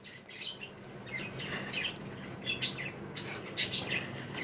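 Birds chirping in short scattered calls, with a few sharp clicks about two and a half and three and a half seconds in.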